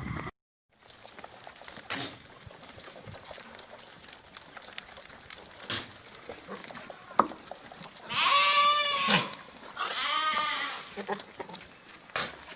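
A goat bleating twice, two wavering calls of about a second each a little past the middle, with a few short knocks around them.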